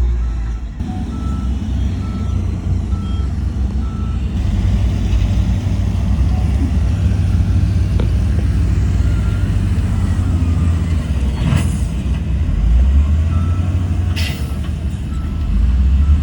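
Heavy diesel earthmoving equipment running with a steady low rumble, while a reversing alarm beeps about once a second for the first few seconds and again near the end, signalling a machine backing up. Two short hisses come about 11 and 14 seconds in.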